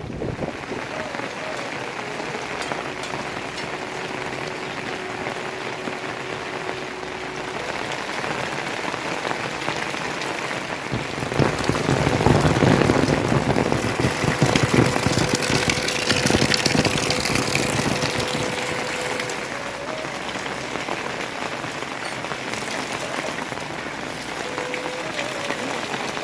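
Steady rain falling, swelling louder for several seconds in the middle.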